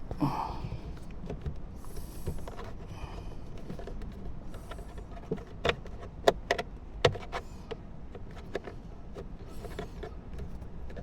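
Hands working the car's plastic glovebox trim and clips: rustling handling noise with a few sharp plastic clicks and knocks, clustered about halfway through, as a clipped part is pushed and bent to pry it out.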